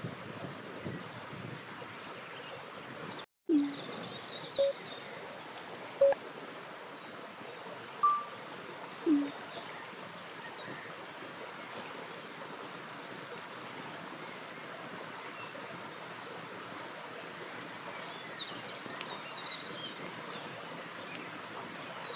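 Steady rush of a river, with faint bird chirps over it. The sound cuts out briefly about three seconds in. Then come five short, loud pitched notes, spread over the next six seconds.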